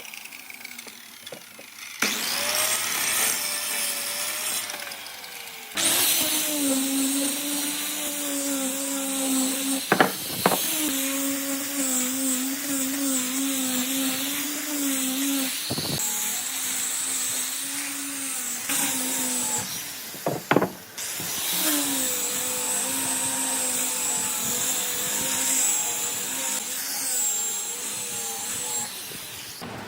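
A handheld electric power tool working wood: its motor hum wavers as it loads, over a loud hiss. It starts about two seconds in, stops briefly, and then runs almost to the end, with a few short dips and a couple of sharp knocks.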